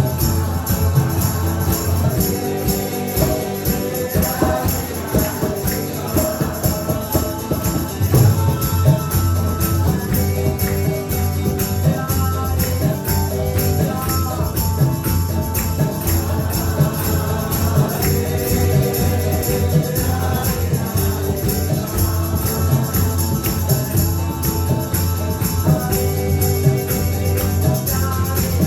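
Kirtan music: group singing of a Krishna chant in call and response, with held melodic lines over steady jingling percussion.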